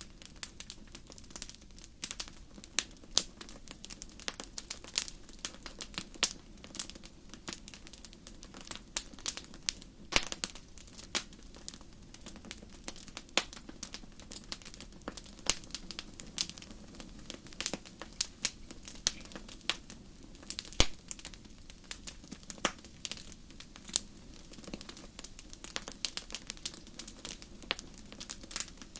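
Wood fire burning in a fireplace, crackling with frequent, irregular sharp pops over a low steady rush of flame.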